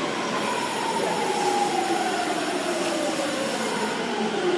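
Electric commuter train running at a station, its whine sliding steadily down in pitch as it slows over a continuous rumble of wheels on rail.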